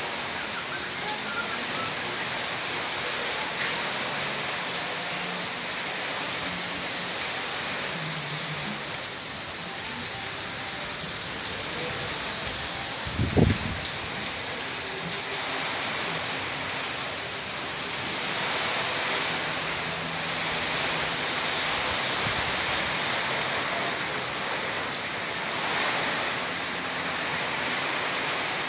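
Heavy rain pouring steadily, with a single short thump about halfway through.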